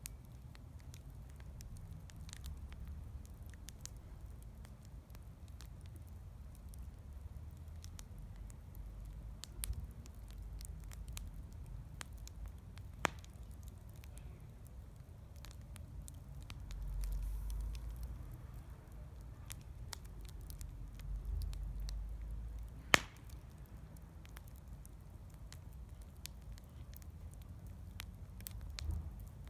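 Bonfire crackling, with scattered small snaps and two sharp loud pops, one about halfway through and one some ten seconds later. A low rumble runs underneath and swells twice.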